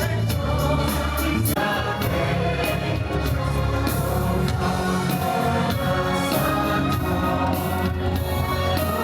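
Stage show music: a choir singing over instrumental accompaniment, with a light, regular beat.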